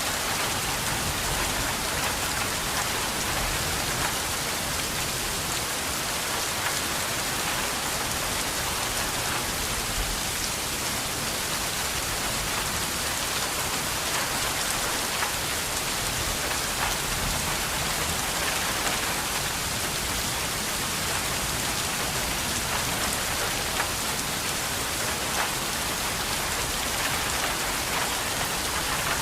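Steady rain falling, an even hiss of rainfall with scattered faint ticks of individual drops, unchanging throughout.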